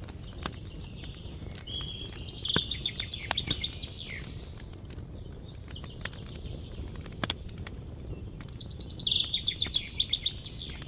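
Campfire crackling with scattered sharp pops and a low rumble underneath. A songbird sings twice over it, each song a short steady note running into a fast trill.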